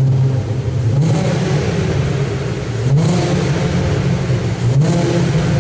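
Volkswagen MK4 R32's VR6 engine accelerating hard. The pitch climbs through the gears, with a short break in the sound about every two seconds.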